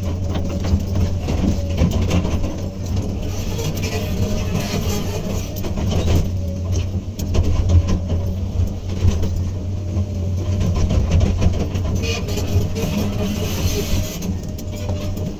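Komatsu PC200 excavator's diesel engine running steadily with a low drone, with scattered knocks from the machine as it works.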